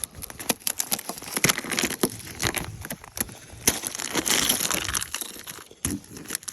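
Ice cracking and crunching in a rapid run of sharp cracks, with a longer stretch of gritty scraping about four seconds in, as ice is broken off a truck.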